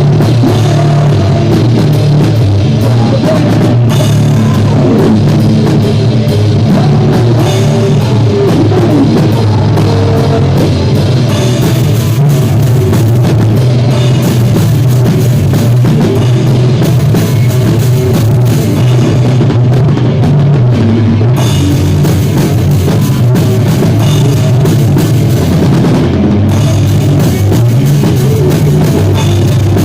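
Rock band playing live at full volume, the drum kit prominent. The recording is loud and of poor quality.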